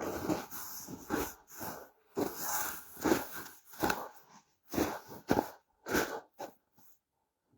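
Footsteps crunching on the ground at a walking pace, a dozen or so steps that slow and stop about seven seconds in.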